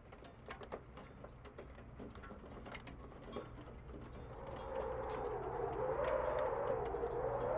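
Ice pellets ticking on a metal stove and a wooden cabin roof, scattered sharp ticks. About halfway through, a wavering, moaning blizzard wind sets in and grows louder.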